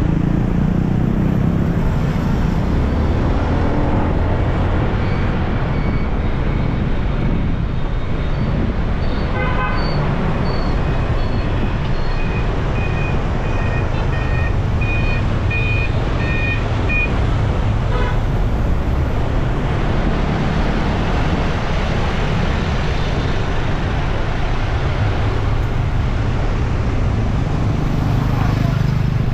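Riding a motorbike through city traffic: a steady engine and wind rumble, with a run of short, high horn beeps in the middle stretch.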